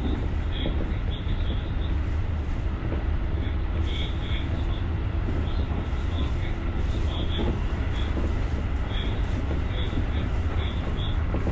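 JR electric commuter train running along the line: a steady low rumble from the cab, with many brief high squeaks scattered throughout and a faint steady whine in the middle.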